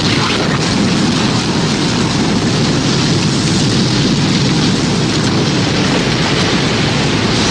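Tornado sound effect: a loud, steady rush of storm wind, with no rise or fall.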